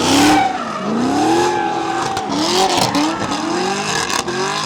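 A car engine revving hard up and down in a series of quick throttle swells while the tires spin and screech, as in a burnout or donuts.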